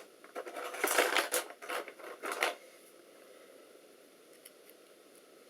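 Plastic memory modules clattering and clicking against one another as a hand rummages through a box of loose laptop RAM sticks, a rapid run of small knocks lasting about two seconds, then only faint hiss.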